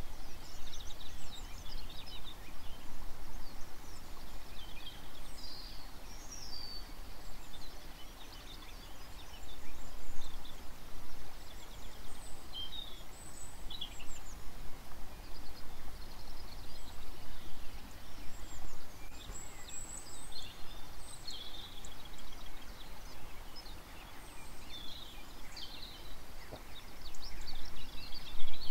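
Wild songbirds calling, many short chirps and trills scattered throughout, over a steady outdoor background hiss and low rumble.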